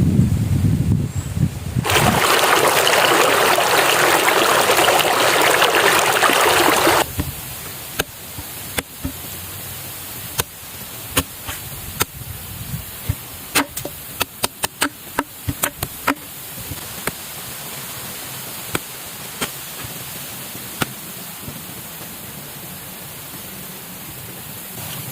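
Steady rush of a flowing stream, with a louder burst of rushing noise from about two to seven seconds in that stops abruptly. After it comes an uneven run of sharp knocks, most of them bunched together a little past the middle.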